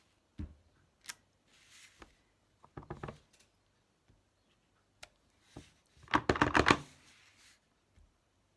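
Card-making handling sounds: scattered light taps and paper rustles, with a quick run of taps about six seconds in, the loudest, as a rubber stamp is inked and pressed to decorate the inside of the card.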